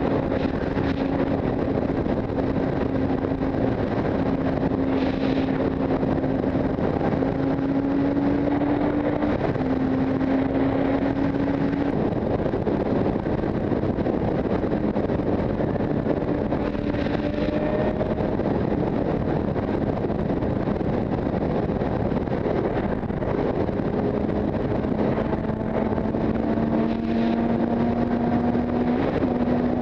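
Motorcycle engine running under way, with steady wind and road noise. The engine note drops about a third of the way in and climbs again near the end.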